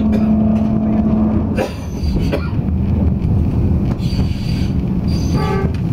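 Tokyu Setagaya Line car running along the track, heard from inside: a steady low rumble with a held motor hum that drops away a little under two seconds in, then a few clicks from the wheels over the rails. There is a brief high-pitched squeal near the end.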